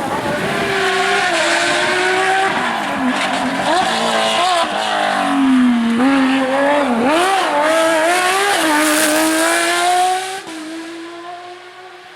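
Porsche rally car's flat-six engine at full throttle, its pitch climbing and dipping sharply with gear changes and lifts, with tyre noise in the middle stretch. About ten seconds in it drops away to a much quieter, steadier engine sound.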